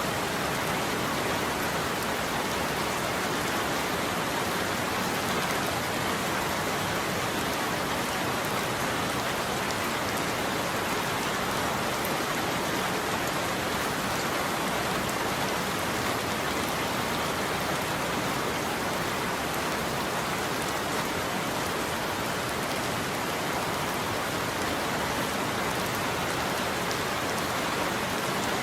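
Steady heavy rain falling on a roof, an even hiss with scattered drop ticks.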